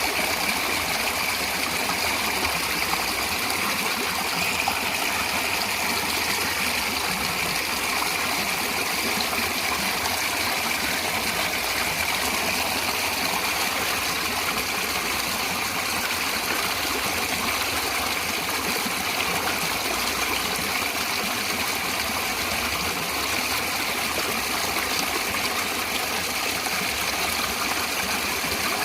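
Natural flowing water rushing and splashing steadily, with no breaks or changes.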